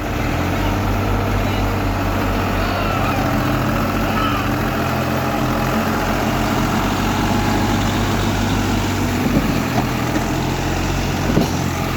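Four-wheel-drive tractor's diesel engine running hard at a steady speed, its revs rising right at the start, as it strains to pull out of deep mud.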